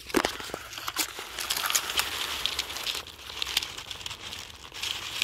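Close rustling and crackling of dry vegetation being brushed and pushed aside near the microphone, with many short sharp clicks and snaps.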